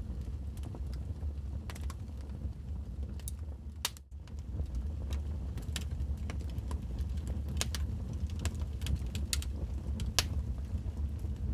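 Wood fire crackling in a fireplace: irregular sharp pops and snaps over a steady low rumble, the loudest pop about ten seconds in. The sound dips briefly about four seconds in.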